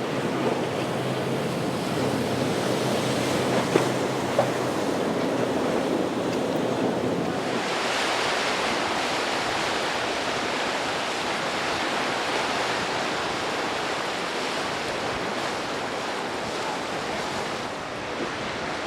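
Waves and rushing surf water with wind on the microphone. A low, steady engine hum runs under the first seven seconds or so. After that the water rush turns brighter and fuller. Two short knocks come around four seconds in.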